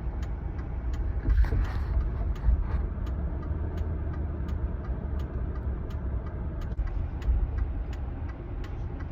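Car engine running steadily with a low rumble, with a light regular ticking about three times a second.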